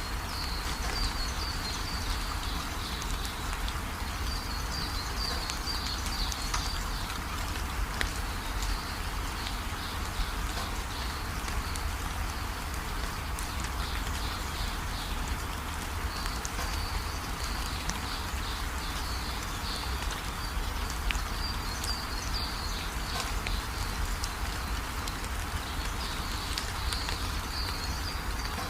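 Steady rainfall, with a high chirping call from an animal coming and going in short runs every few seconds.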